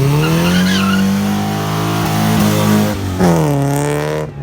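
Drag car engine revving hard: the pitch climbs at the start and holds, then rises again about three seconds in before dropping off just before the end.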